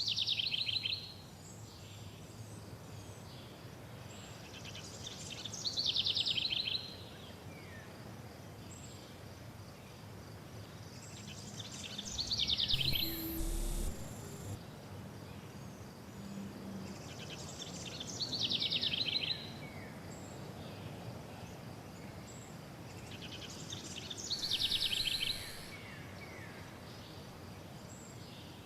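A songbird singing the same short phrase, a quick trill ending in falling notes, five times about six seconds apart, over a steady background hiss.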